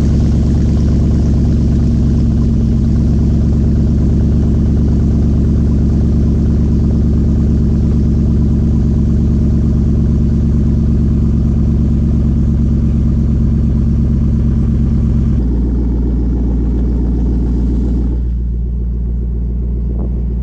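Jeep V8 idling through a Borla exhaust with the mid-muffler deleted, a steady deep burble just after a cold start. About fifteen seconds in, the idle steps down and goes a little quieter, as it settles from the fast cold-start idle.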